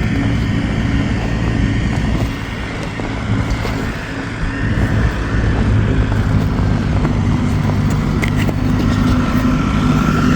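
Vehicle engine running steadily with a low drone. It drops in level a couple of seconds in and comes back up after about five seconds.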